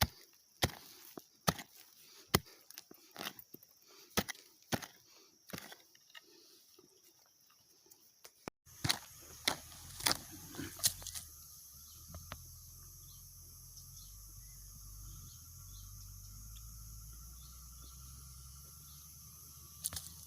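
Hand digging tool striking into earth again and again, about one stroke a second, over a steady high buzz of insects. After a break about halfway through, a few more strokes give way to a steady low rumble, with a thin steady insect whine above it.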